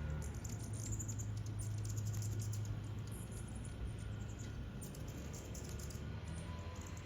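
Quick, faint, high-pitched ticks, typical of hummingbird chip calls, over a steady low hum.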